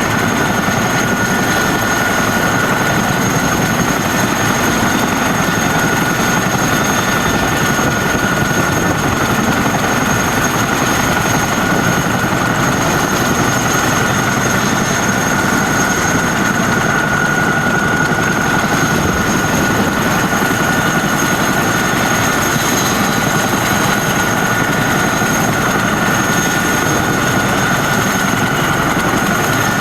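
Boeing CH-47D Chinook tandem-rotor helicopter running: a loud, steady rush of rotor and twin-turbine noise with a constant high-pitched turbine whine over it.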